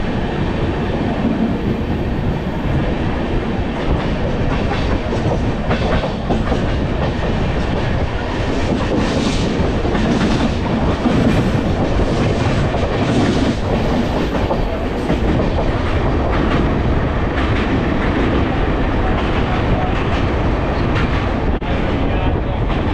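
Passenger express train running on the track, a steady rumble with the wheels clicking over rail joints.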